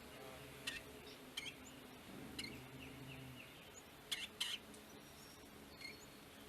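Scattered short, sharp bird chip notes, about six at irregular intervals, with a few faint high thin chirps in the second half. A faint low hum runs briefly through the middle.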